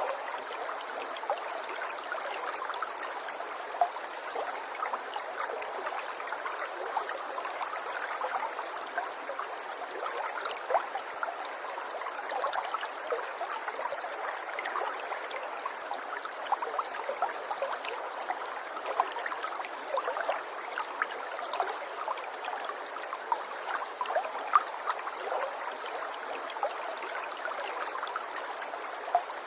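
Running water, a steady flow with frequent small splashes.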